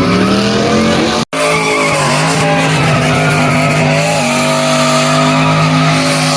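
A car engine is held at high revs while its tyres squeal and spin, with the pitch climbing at the start and stepping up about four seconds in. The sound cuts out for an instant about a second in.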